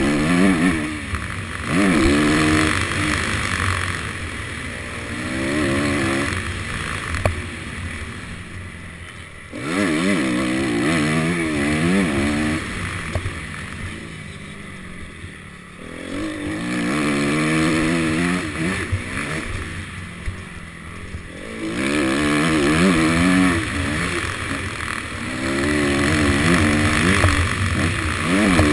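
Honda CRF250 dirt bike's single-cylinder four-stroke engine revving up and down repeatedly as it is ridden hard, with wind rushing over the helmet-cam microphone. The throttle shuts off three times, the engine falling away for a second or two before pulling up through the revs again.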